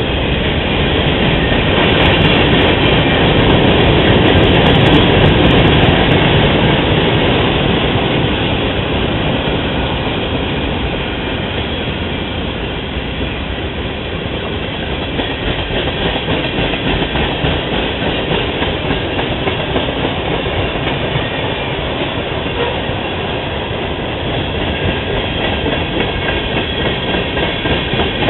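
Freight train rolling past at track side, a steady loud rumble of cars and wheels on the rails, loudest a few seconds in, with a quick rhythmic pulsing near the end.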